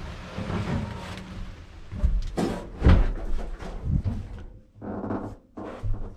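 Handling noises: a few sharp knocks and thuds with rustling in between, like a hatch or panel being moved.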